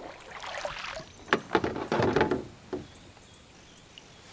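Water splashing and sloshing at a kayak, with a few sharp knocks, in irregular bursts over the first three seconds before settling quieter.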